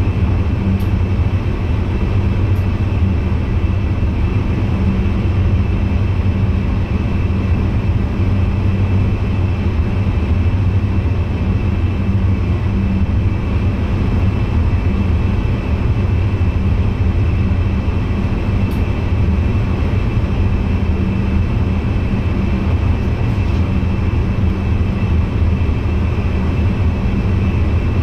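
Steady running noise inside the driver's cab of an NS VIRM double-deck electric train: a low, even hum over the rolling noise of the train, with no change throughout.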